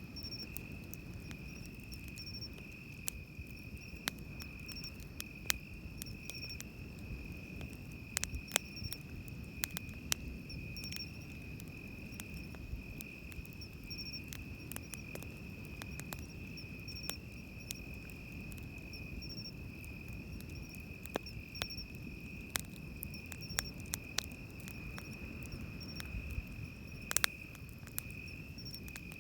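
Night insects trilling: one high, unbroken trill, with another insect's short chirps repeating above it. Sharp scattered pops from a crackling wood campfire, with the low rumble of waves on the beach beneath.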